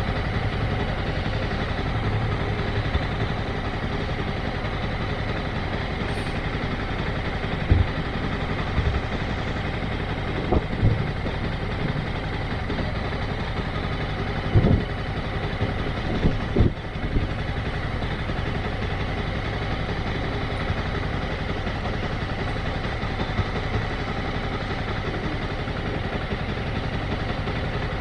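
Motorcycle engine running steadily, with a few short knocks standing out in the middle stretch.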